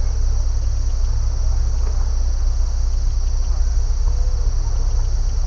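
A chorus of crickets chirring in a continuous high, finely pulsing trill over a steady low rumble, with a few faint short calls in the background.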